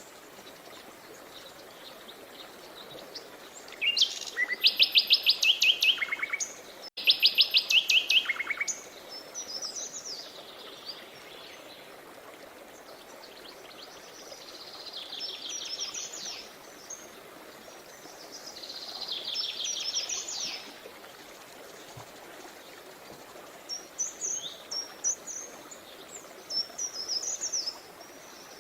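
Songbirds singing over the steady rush of a river: a loud, fast trilled song about four seconds in, repeated after a brief break, then softer trills and short high chirps later on.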